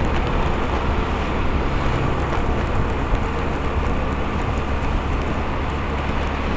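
Motorcycle on the move: steady engine and road noise with a deep, continuous rumble, as heard from a rider-mounted microphone.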